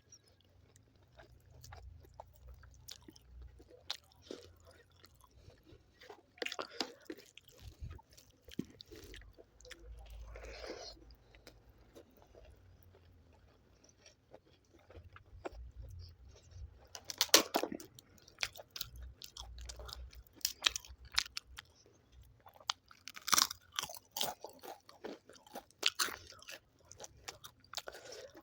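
Close-miked chewing and biting while eating chicken curry with rice. Irregular clusters of sharp crunching clicks with quieter chewing between them, loudest a little past halfway and again toward the end.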